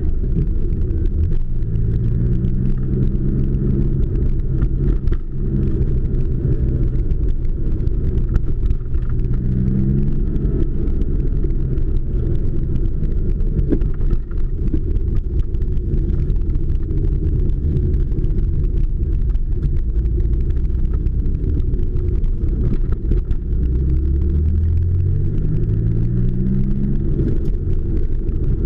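1978 Porsche 911 SC's air-cooled 3.0-litre flat-six, heard from inside the cabin while driving. Its note rises in pitch as it pulls through the gears three times, around the start, about ten seconds in and near the end, with steadier cruising between.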